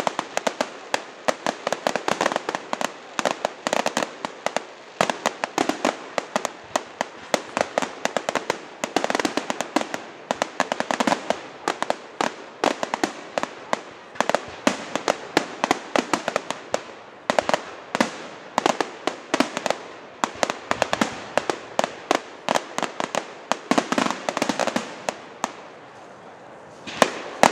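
Fireworks going off in rapid, dense volleys of sharp cracks and pops, several a second, with a brief lull near the end followed by a single loud bang.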